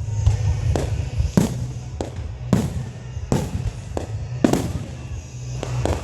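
Aerial fireworks shells bursting: about six sharp bangs at uneven intervals of roughly a second, each trailing off in a brief echo.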